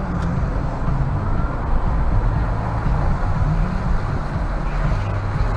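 A car driving: steady engine and road noise, with no impact or horn standing out.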